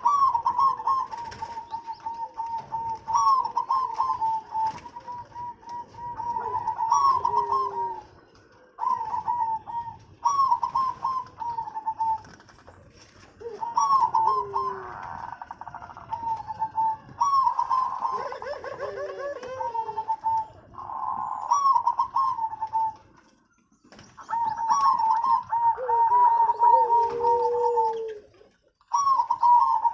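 Zebra doves (perkutut) cooing: rapid strings of short repeated notes, with lower gliding coos from more than one bird overlapping. The phrases are broken by a few brief silences.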